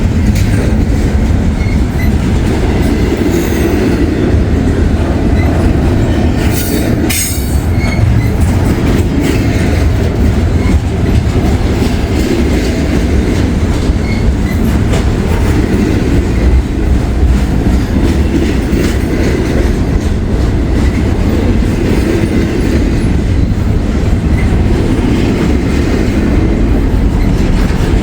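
Freight train cars rolling past close by: a steady, loud rumble of steel wheels on rail with clacking over the rail joints and short high squeaks here and there, plus a couple of sharp clanks about seven seconds in.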